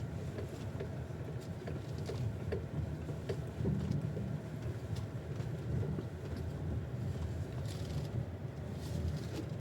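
Cabin of a GAC GS8 II driving over uneven road: steady low road rumble with scattered short, sharp knocks from under the steering wheel, clear and ringing. They come as the car's weight rolls from side to side over bumps, a fault whose cause the owner does not know.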